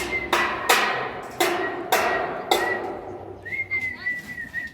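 Sharp hammer blows at an uneven pace, about six in the first three seconds, while someone whistles a high, mostly steady note that wavers and rises again near the end.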